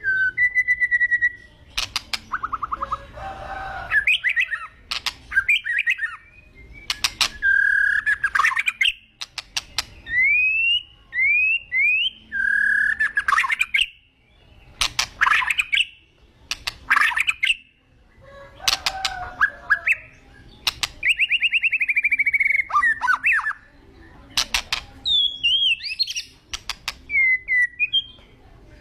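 White-rumped shama (murai batu) singing in full voice: a varied run of loud whistled phrases with rising and falling glides, broken up by rapid ticking rattles, phrase after phrase with short pauses between.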